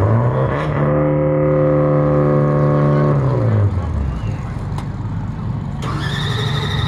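Supercharged V8 drag-car engine revved up and held at a steady high rev for about two seconds, then falling back to idle. A high, steady whistle-like tone sounds near the end.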